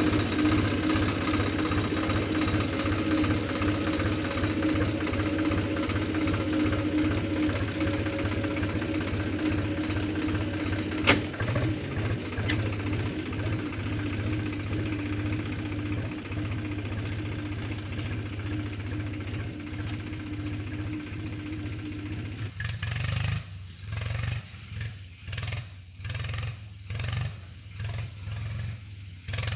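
Tractor engine running steadily with a rapid knocking beat. A single sharp click about eleven seconds in. In the last seven seconds the sound changes to a lower rumble that swells and fades about once a second.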